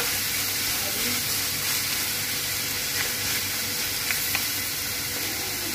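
Diced chicken breast and bell pepper sizzling steadily in a stainless steel pan as they are stirred with a wooden spoon, the spoon clicking against the pan a few times about three and four seconds in.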